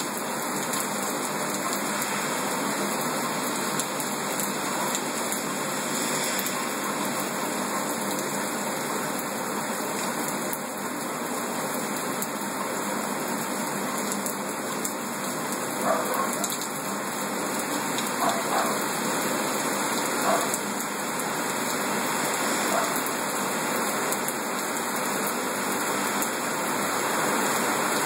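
Heavy rain pouring down steadily, with a few short louder sounds in the middle.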